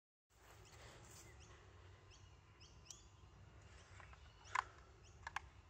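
Birds chirping faintly, short descending chirps repeated every half second or so, over a low steady rumble. A few sharp clicks come in the second half, the loudest about three-quarters of the way through.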